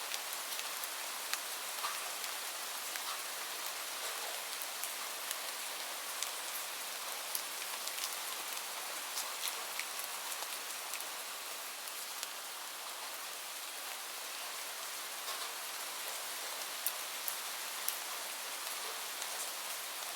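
Steady rain falling on a surface: an even hiss with many scattered, close single drops ticking through it.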